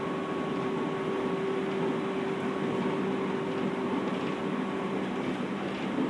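Inside a JR 211 series electric train's motor car running on the line: a steady rumble of wheels on rail with a steady hum at constant pitch.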